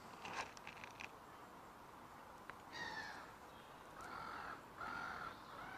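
Faint bird calls, three short harsh calls in the second half.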